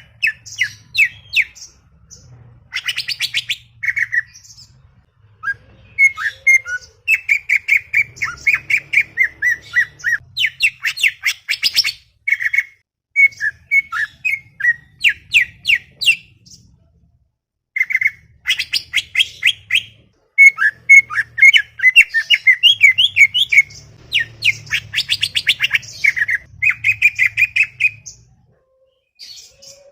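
Cucak ijo (green leafbird) singing a chattering song of rapid, sharp notes in long runs, breaking off briefly a few times between phrases.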